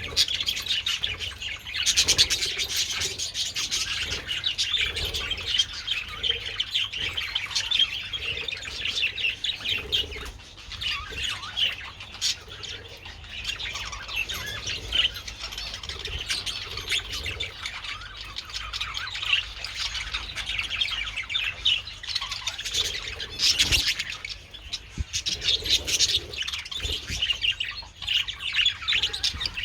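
A flock of budgerigars chattering continuously, a dense mix of warbles, chirps and squawks.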